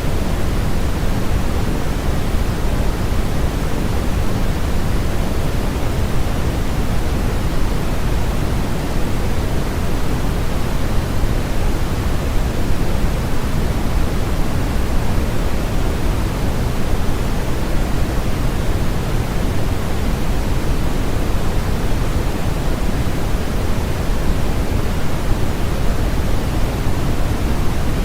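Steady, unchanging synthetic noise of a sleep-aid track, heaviest in the bass and thinning toward the treble, closer to pink noise than to flat white noise.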